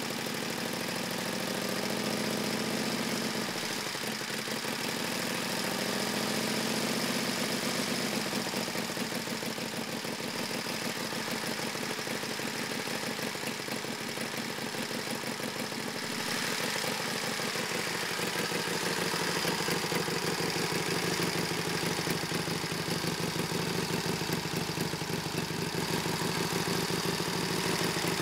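1931 Indian 101 Scout's side-valve V-twin engine idling just after a cold start in below-freezing weather. Its speed wavers over the first several seconds, then settles into a steady idle as it warms up.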